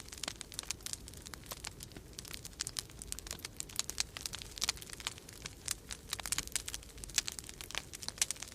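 Wood fire crackling in a fireplace: many irregular sharp crackles and pops over a steady low rumble.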